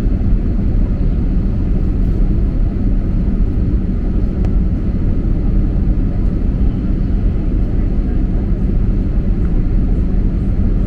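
Steady engine and airflow noise heard inside an airliner cabin during the descent to land, heaviest in the low end with a constant low hum.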